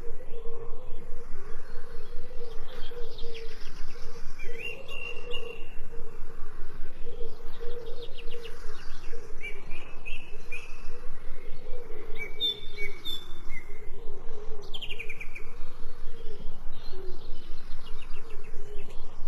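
Songbirds chirping and trilling in short bursts, some calls falling in pitch, over a steady low pulsing background.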